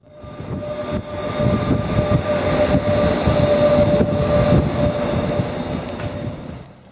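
Passenger train running on rails: a low rumble with irregular knocks from the wheels on the track and a steady whine above it. It fades in at the start and fades down near the end.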